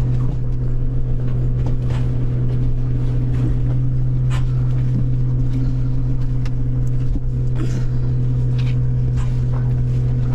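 Steady low machinery hum aboard a boat, an even drone that does not change, with scattered faint clicks and rustles over it.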